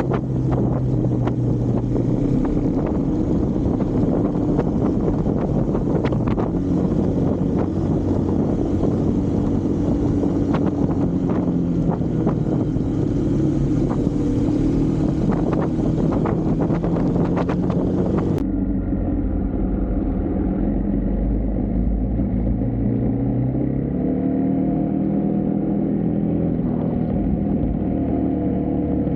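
Husqvarna Svartpilen 401's single-cylinder engine running under way, its pitch rising and falling with the throttle, with wind buffeting the microphone in gusts. About two-thirds of the way through, the sound abruptly becomes duller and the wind drops out, leaving the engine note rising and falling.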